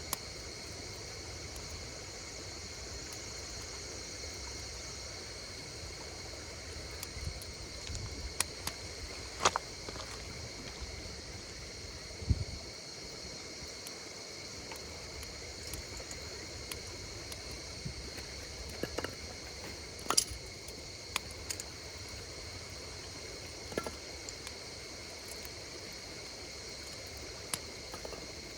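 Wood fire crackling, with a scattering of sharp pops from the burning wood, over a steady high chirring of insects.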